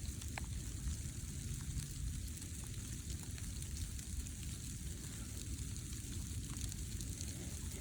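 Light sleet falling: small ice pellets pattering in a soft, steady hiss with scattered faint ticks.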